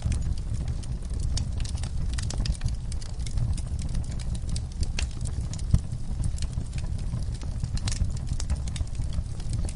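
Wood fire burning in a fireplace: a steady low rumble of flames with irregular sharp crackles and pops, one stronger pop about six seconds in.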